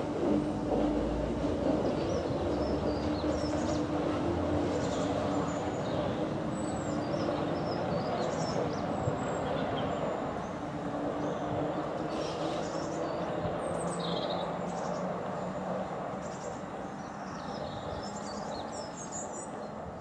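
Electric passenger train running at the platform, a steady hum and rumble that slowly fades as it moves off. Small birds chirp throughout.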